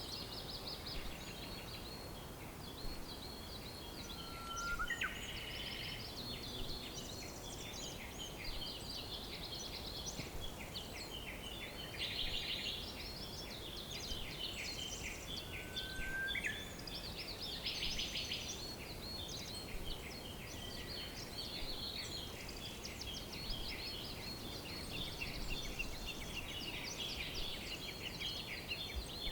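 Several songbirds chirping and trilling at once in a dense, continuous chorus of high, quick notes, with two short rising whistles at about five and sixteen seconds, over a steady low background noise.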